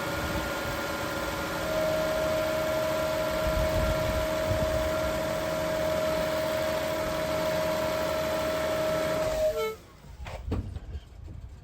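BMW 760Li V12 engine running steadily, with a constant whine over the engine note that gets louder about two seconds in; this is the strange noise the owner cannot explain. The engine sound stops abruptly near the end, followed by a few faint knocks.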